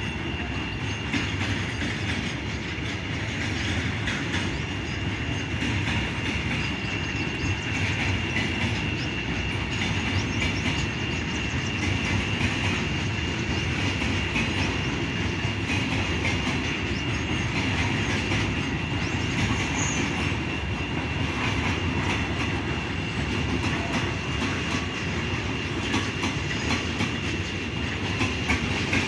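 A train running on rails, its wagons rolling with a steady rumble and clickety-clack of wheels over rail joints, over a continuous high-pitched wheel squeal.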